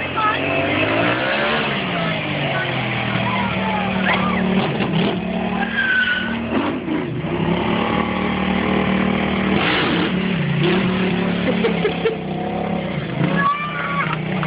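Sportbike engines revving, their pitch rising and falling over a steady low drone, with short tire squeals about six seconds in and again near the end.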